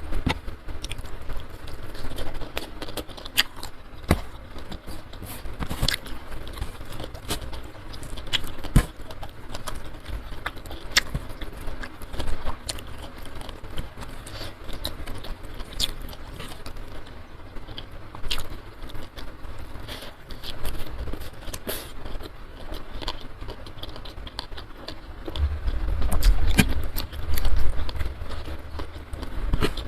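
Close-miked eating: chewing with scattered sharp clicks and scrapes of food and fingers against a plate, over a steady low hiss. A low rumble comes in near the end.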